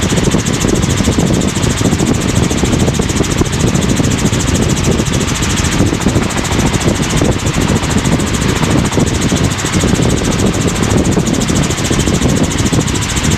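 Helicopter cabin noise in level cruise flight: the engine and rotor drone steadily, with a fast, even rotor pulse running through it.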